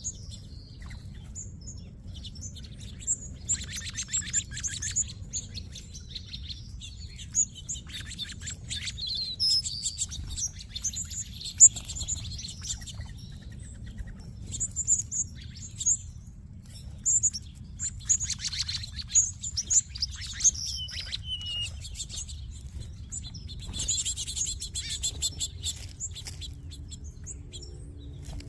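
A large flock of small songbirds chirping and twittering all at once, many overlapping short high calls with no pause, over a steady low background rumble.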